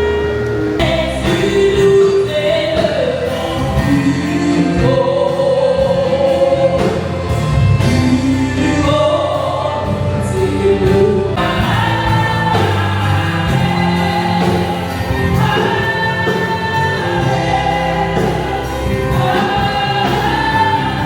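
Gospel-style music with a choir singing over instrumental accompaniment.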